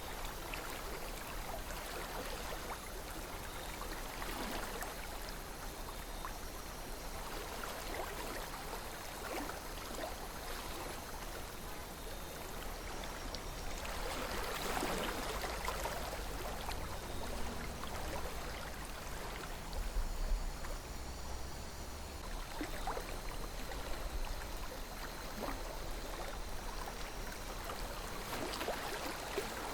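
Calm river flowing: a steady rush of water with many small gurgles and splashes, and a low rumble underneath.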